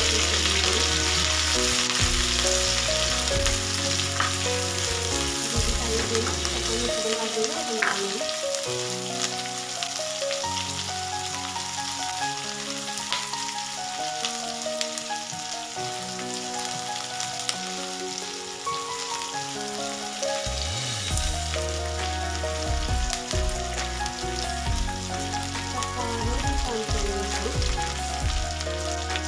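Sliced green chilies and chili spice paste sizzling as they fry in hot oil in a wok, stirred with a plastic spatula. Background music with a bass line plays underneath.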